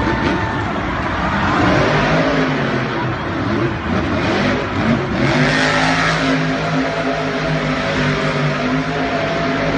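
Racing truck engines running loud and revving. About halfway through the pitch sweeps up, then it settles into a steady engine note.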